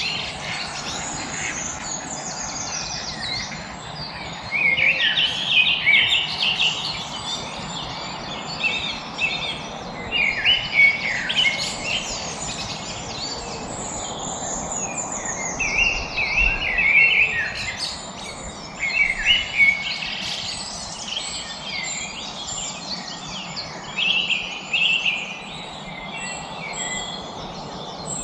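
Several songbirds chirping and singing together, with short calls and trills coming in clusters one after another over a faint steady background hiss.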